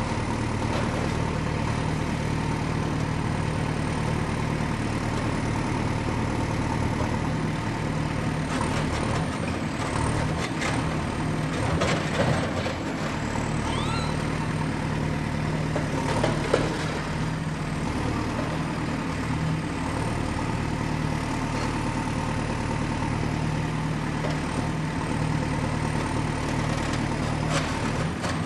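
Excavator's diesel engine running steadily, with a few metal clanks and brief squeals from the machine near the middle.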